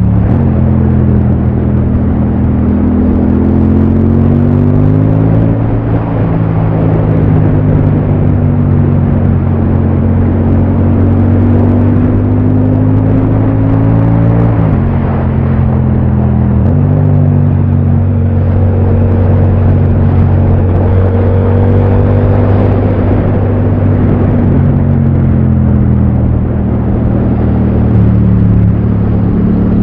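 Yamaha MT-07's parallel-twin engine running under load while riding, its pitch climbing and easing off again and again. About halfway through the pitch drops suddenly, then jumps back up two seconds later. A steady rushing noise runs underneath.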